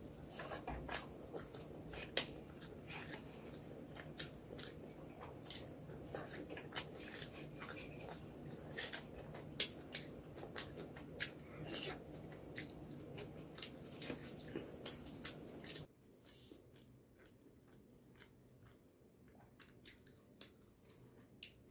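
Close-miked chewing of a mouthful of rice and egg curry eaten by hand, with frequent sharp wet mouth clicks and smacks. About sixteen seconds in it drops much quieter, leaving only a few faint clicks.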